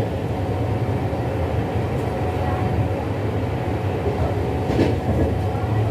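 LHB Vistadome coach running on rails, heard from inside the coach: a steady low rumble of wheels and running gear, with a brief sharp clatter about five seconds in.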